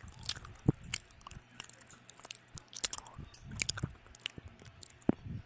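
A person chewing and biting food close to the microphone: irregular mouth clicks and smacks with a few sharper ones.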